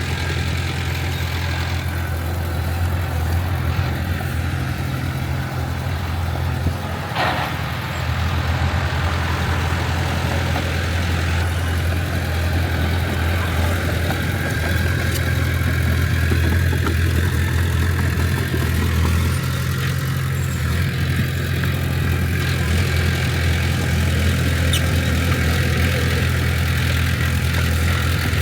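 Heavy earthmoving machine's diesel engine running steadily with a deep low hum, with one brief knock about seven seconds in.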